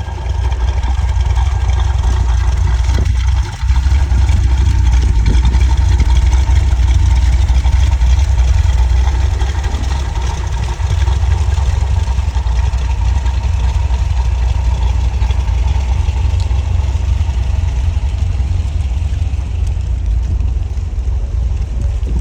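1964 Corvette's 365 hp 327 V8 running at idle with a steady low rumble, briefly dipping about three and a half seconds in.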